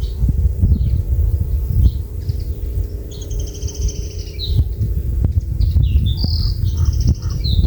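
A small songbird singing short trilled phrases, most of them in the second half, over a constant low rumble.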